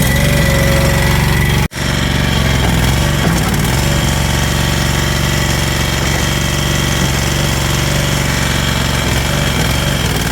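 Struck Magnatrac MH5000 mini dozer's engine running steadily with a rattly, jackhammer-like tone. The sound cuts out for an instant just under two seconds in, then picks straight up again.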